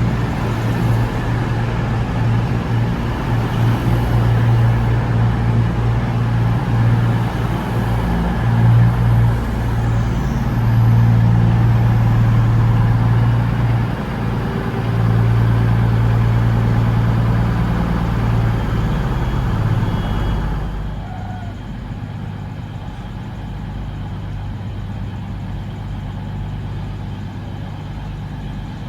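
Diesel train engine running with a steady low drone under a wash of noise. About twenty seconds in, the noise drops away abruptly, leaving a quieter steady hum.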